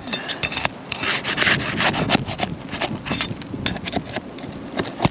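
Scraping and prying under asphalt roof shingles as the roofing nails beneath them are worked loose: a run of irregular rasping scrapes, with a sharp click near the end.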